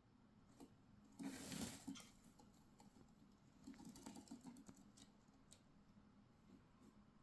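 Green-cheeked conures moving about their cage: faint scratching, rustling and light clicking, with a louder scratchy rustle about a second in and a cluster of soft clicks near the middle.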